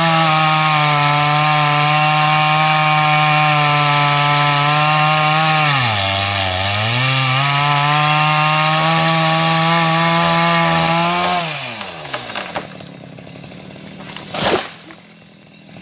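Stihl MS 250 two-stroke chainsaw running at high revs, its pitch dipping briefly about six seconds in and then climbing back. Near twelve seconds the revs drop away as the throttle is released, and a sharp knock follows near the end.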